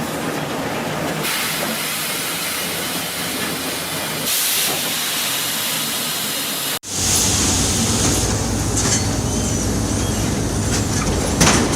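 Sawmill log-infeed machinery running: a steady mechanical clatter and hiss. About seven seconds in the sound cuts to a heavier, lower machinery rumble with a few knocks.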